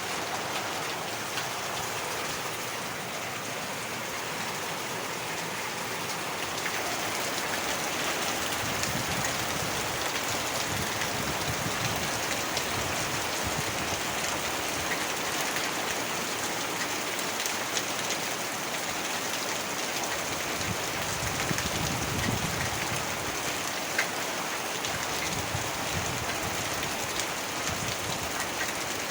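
Heavy rain falling steadily, a dense even hiss of drops, with swells of low rumble about a third of the way in and again past two-thirds, and a single sharp drop-tick near the end.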